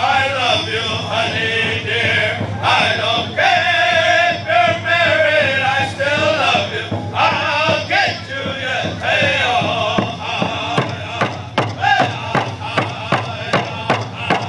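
Powwow drum group singing a round dance song in unison to a steady drumbeat; about ten seconds in the singing falls away and the drum carries on alone at about two beats a second.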